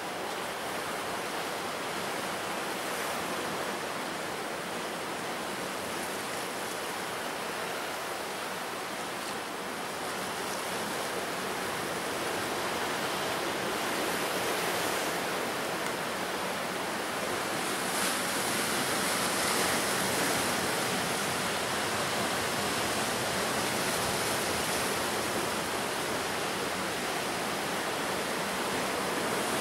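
Ocean surf washing onto the shore in a continuous rushing wash of waves, swelling somewhat louder in the second half.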